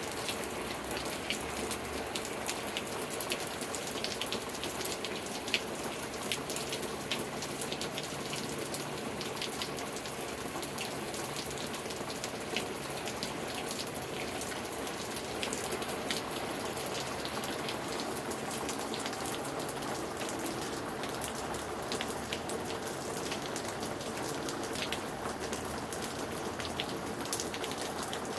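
Steady heavy rain with many individual drops ticking sharply on a hard surface close by.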